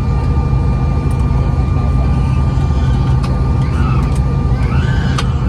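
Steady low rumble inside the cabin of a regional jet, with a faint steady whine over it, from the engines and air systems.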